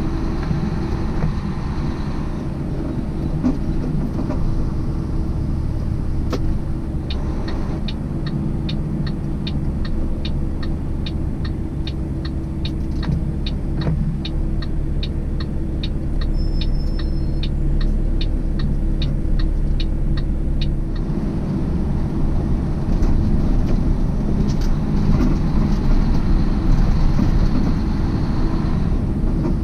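Semi-truck engine running steadily, heard inside the cab, with the turn signal clicking about twice a second for a stretch in the middle as the truck makes a left turn.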